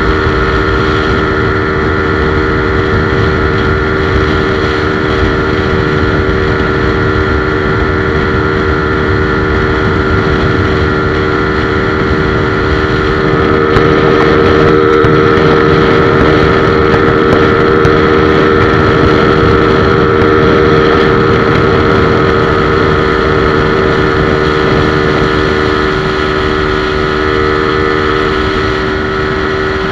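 Yamaha LC135 underbone motorcycle's single-cylinder four-stroke engine running at a steady high pitch with the throttle held wide open at speed, along with wind noise. It gets a little louder about halfway through.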